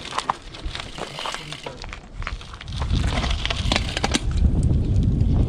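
Scattered sharp clicks and light rattles from a road bike in motion. From about three seconds in, a low rumble of wind buffeting the microphone takes over.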